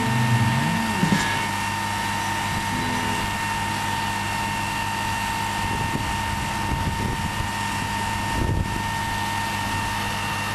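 Steady engine drone with a constant thin whine, heard through wind and outdoor noise. A music track cuts off about half a second in.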